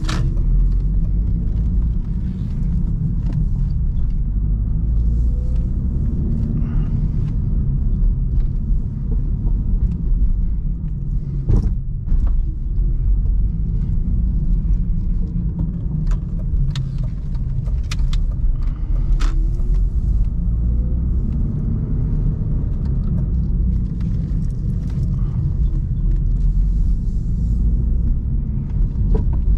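BMW 316i E46 being driven: a steady low rumble of four-cylinder petrol engine and road noise, with the engine note rising and falling gently as revs change. A few sharp clicks or knocks stand out, one near the middle and a cluster a little after.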